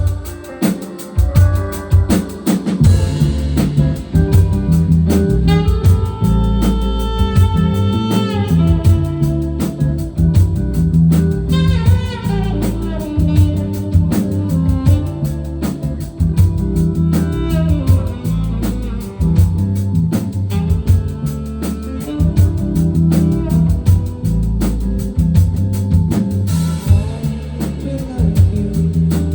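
A band playing an instrumental passage with no vocals: a drum kit keeping a steady beat under bass and guitar.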